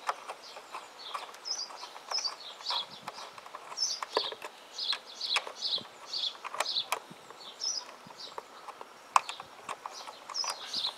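A small bird chirping over and over in short high calls, with scattered sharp clicks and knocks from hand tools at work on the motorcycle, the loudest knock about nine seconds in.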